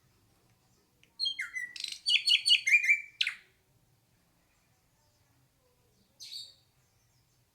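Hair-crested drongo calling: a rapid phrase of repeated notes lasting about two seconds, starting about a second in, then one short call near the end.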